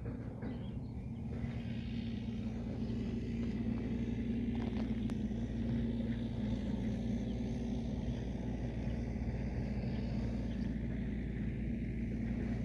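A steady engine hum, rising a little in level about two seconds in.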